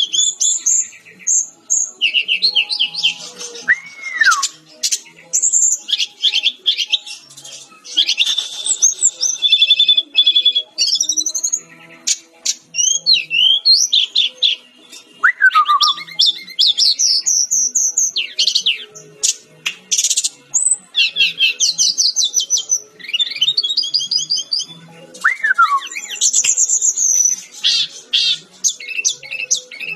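Sikatan Rimba Dada Coklat (a Cyornis jungle flycatcher) singing energetically. The song runs on almost without pause as a string of varied, high, fast phrases: rapid chattering trills, quick rising and falling sweeps, and a few lower falling whistles.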